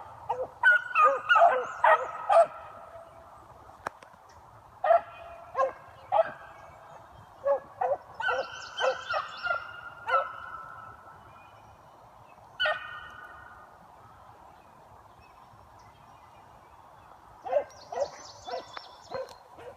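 Beagles baying on a scent trail: short, pitched hound calls in bursts of several at a time, with quiet gaps between the bursts.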